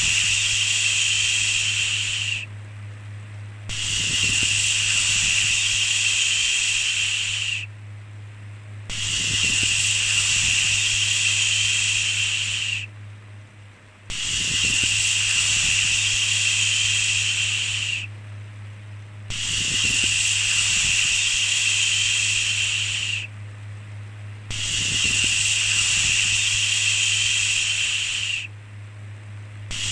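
A long 'shhh' shushing sound, repeated about every five seconds: each shush lasts about four seconds with a pause of about a second between them. A steady low hum runs underneath.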